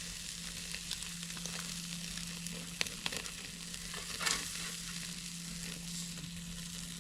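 Cheeseburger patties sizzling as they finish cooking: a steady frying hiss with scattered crackles and a few sharper pops.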